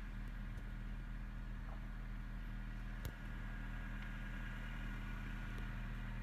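Steady low hum of a car running, heard from inside the cabin, with one sharp click about three seconds in.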